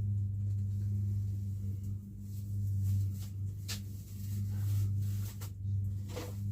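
A steady low hum throughout, with a few short light knocks and clicks from objects being handled.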